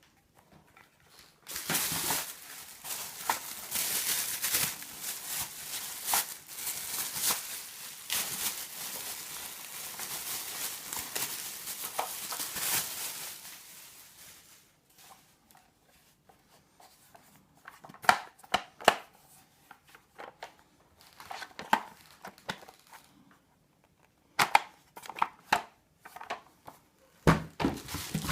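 Packaging being handled: a long stretch of crinkling and rustling for about twelve seconds, then a few scattered clicks and knocks.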